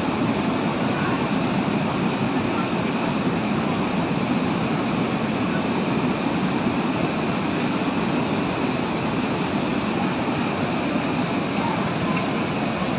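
Floodwater rushing past in a continuous, steady noise with no let-up.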